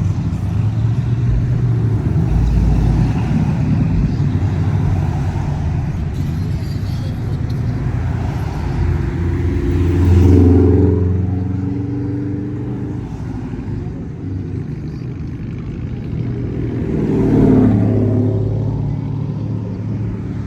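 Classic cars driving past at cruising speed, their engines running low and steady, with two louder passes: one about halfway through and one near the end.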